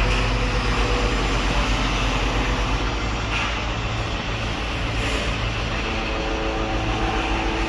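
Heavy construction machinery's diesel engine running steadily with a low drone, with a couple of faint knocks.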